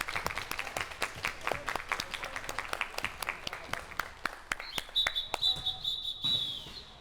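Scattered handclapping from spectators, a quick patter that gradually thins out. About five seconds in, a high, steady whistle blast sounds for a second and a half.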